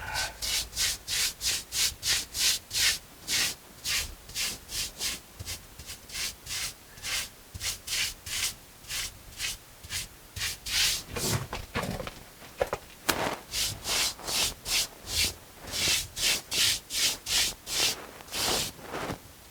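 Mason's brush scrubbing over fresh mortar stucco in quick, even back-and-forth strokes, about two to three a second, texturing and feathering the new patch into the older stucco around it.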